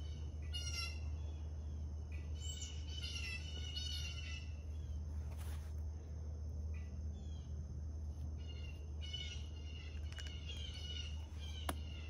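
Songbirds chirping and singing in short, repeated high phrases, over a steady low background hum.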